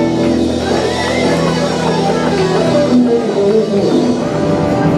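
Live band playing a rock song, with guitar to the fore and a moving melodic line over sustained chords.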